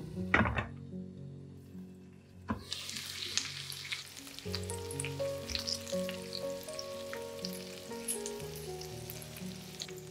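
A glass lid knocks onto a frying pan and the frying goes muffled; about two and a half seconds in, after another knock, zucchini slices frying in oil sizzle openly with many small crackles and spits as a spatula works the pan.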